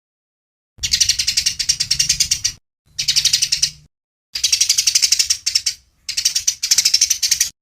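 A small songbird giving four bursts of fast, rattling trills, each a second or two long with brief pauses between them, starting just under a second in.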